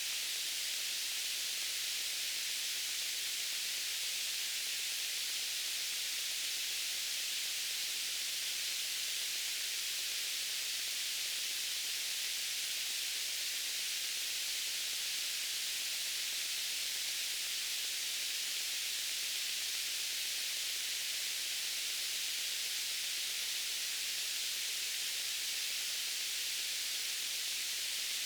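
Steady white noise: an even, unbroken hiss, bright and high-pitched with little low end.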